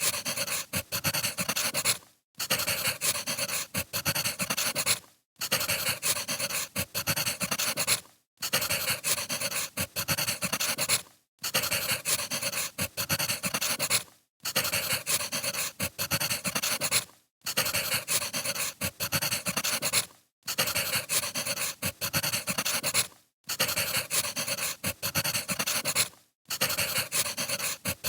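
Crackling wood fire, the popping and hiss of burning firewood, played as a short recording looped about every three seconds with a brief silent gap between repeats.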